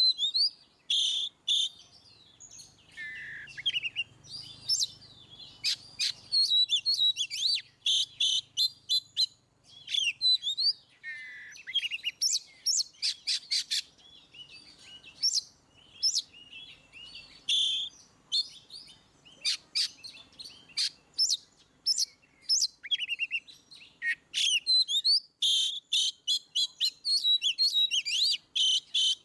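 Oriental magpie-robin (kacer) singing a loud, varied song: quick runs of sharp high whistles, chirps and trills, with some sweeping notes and brief pauses between phrases.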